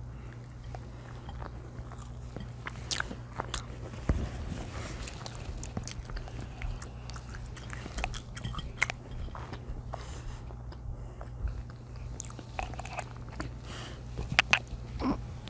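Close-miked chewing and biting of pizza and cheese sticks: scattered wet mouth clicks and small crunches over a steady low hum.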